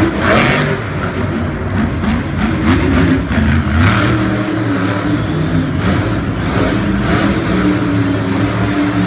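Monster truck engine running loud and revving, its pitch rising and falling.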